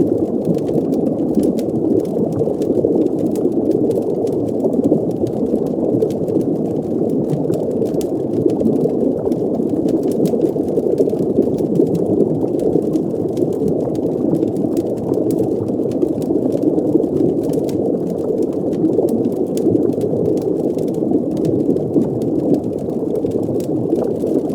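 Underwater fireplace ambience: a steady, muffled, low wash of water noise with faint scattered crackles.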